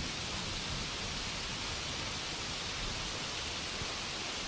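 Steady rainfall ambience, an even hiss of rain with no distinct drops or thunder.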